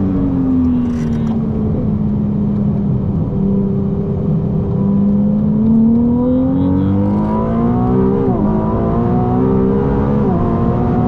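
Ferrari 296 GTB's twin-turbo V6, heard from inside the cabin, easing through a bend and then accelerating hard down the straight, its pitch climbing steadily. The pitch falls sharply twice, about eight and ten seconds in, as it shifts up a gear.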